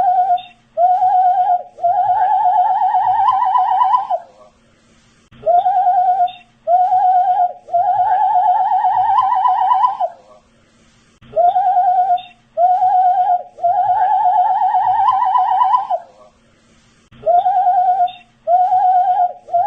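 A man whistling a short phrase over and over: two brief notes, then a longer wavering note that rises slightly. The phrase repeats about every six seconds with short pauses between.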